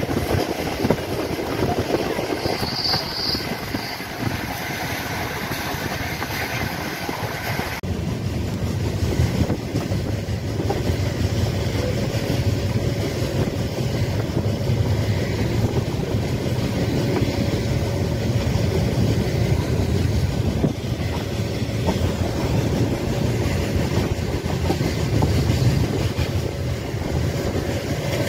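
Express passenger train running at speed, heard from inside the coach at the window: a steady rumble of wheels on rail with rushing air. About eight seconds in the hiss thins and a deeper rumble takes over.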